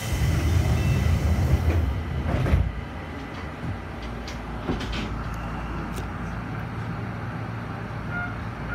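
Enshu Railway electric train passing on the adjacent track: a loud low rumble for the first two and a half seconds that drops to a steadier, quieter rumble as its last cars go by, with a few sharp clicks.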